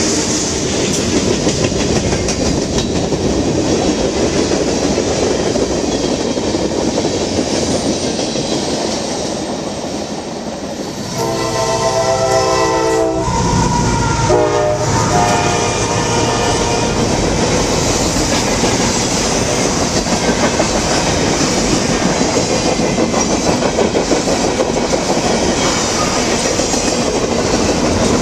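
Freight cars rolling past with steady wheel clatter over the rail joints. About eleven seconds in, a CSX AC60CW diesel locomotive sounds its multi-note air horn, one long blast and then a shorter one, as it passes. The clatter of the train continues after the horn.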